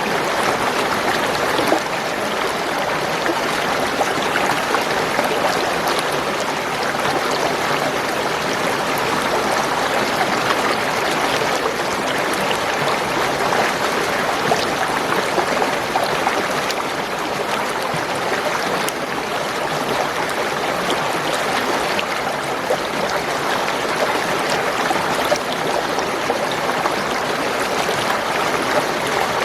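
Spring water gurgling and trickling steadily over stones, a continuous rush flecked with small splashes.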